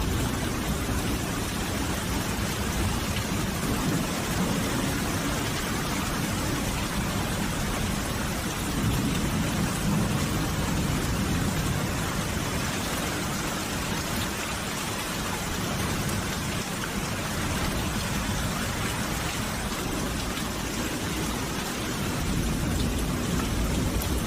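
Steady rain falling, an even hiss of drops, with a low rumble underneath that swells about ten seconds in and again near the end.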